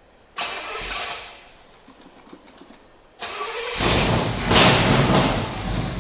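Pontiac 400 V8 with a performance cam and Demon carburetor being started for the first time after a rebuild. The starter turns it over briefly about half a second in, then cranks again about three seconds in, and the engine catches within a second. It runs loudly for a moment, then settles into a steady idle.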